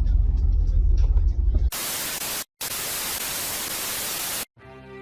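A low car rumble cuts off abruptly after about a second and a half, replaced by a TV-static hiss edit effect. The hiss plays in two blocks split by a split-second dropout and stops dead, and music fades in near the end.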